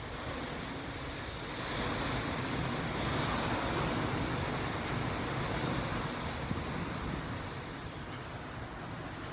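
Typhoon wind rushing around and over a building, heard from inside. It is a steady noise that swells about two seconds in and eases after about six seconds.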